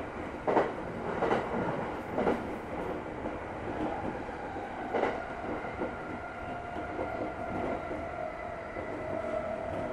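Running sound inside a JR East commuter electric train on the move: the wheels clack sharply over rail joints a few times in the first half. Under this runs a steady rumble of wheels on rail, with a motor tone that grows stronger and edges up in pitch in the second half.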